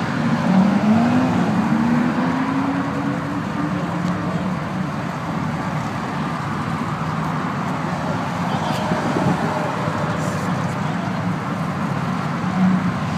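A car's engine accelerating away, its pitch climbing over the first three seconds or so, then a steady mix of engines and traffic noise.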